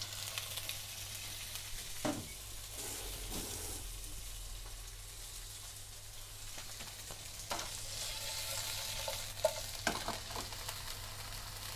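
Pieces of chicken cartilage with meat on them (yagen nankotsu) sizzling steadily in hot olive oil in a frying pan, with a few brief knocks as the pieces are moved about in the pan.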